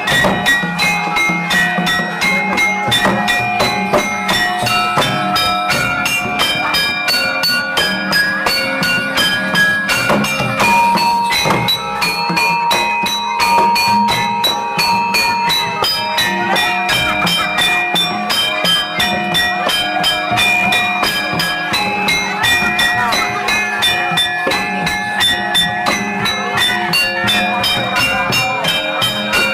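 Javanese gamelan music for a jathilan horse dance: bronze metallophones and gongs ringing in quick, interlocking notes over a fast, steady drum beat. A single high note is held for several seconds about ten seconds in.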